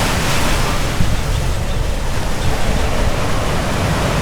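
Ocean surf washing on the beach, with wind buffeting the microphone in a choppy low rumble.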